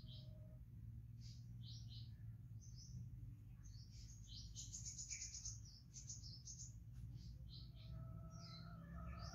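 Faint chirping of small birds: short, high chirps repeated every half second or so, thickest about halfway through, over a low steady hum.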